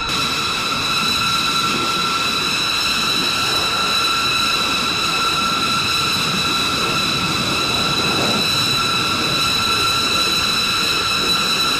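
Jet engine running steadily: a loud rushing noise with a high, unchanging whine on top.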